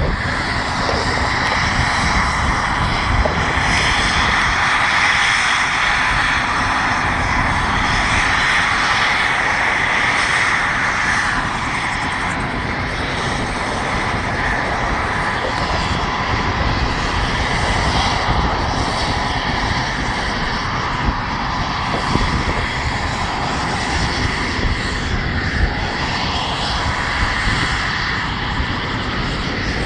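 Military aircraft turbine engines running steadily, a continuous loud rushing whine with no breaks.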